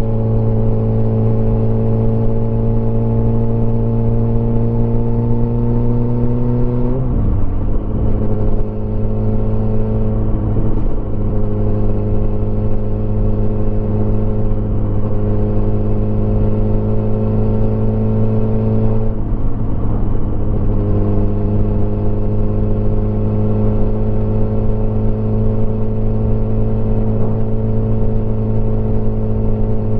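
Motorcycle engine running steadily under way, its pitch creeping slowly upward at first. The tone breaks and shifts briefly twice, about a quarter of the way in and again just past halfway, then settles steady.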